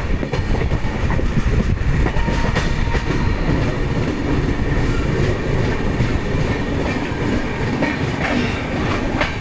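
Moving train heard from its open doorway: a steady rumble of wheels on the track with clickety-clack as they pass over rail joints and points.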